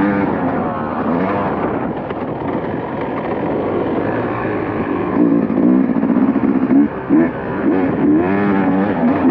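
KTM dirt bike engine revving up and down as it is ridden, with the throttle chopped briefly a few times in the second half.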